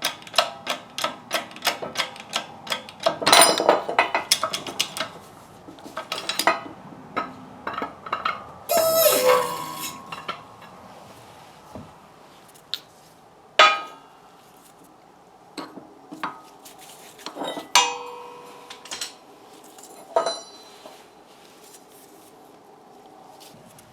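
Hand tools working on metal car parts: a fast, even run of sharp clicks, about four a second, then scattered metallic clinks and knocks with short ringing, and a brief scrape about nine seconds in.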